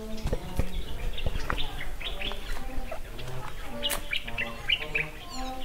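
Small birds chirping repeatedly in quick, short calls, over a bed of low held tones.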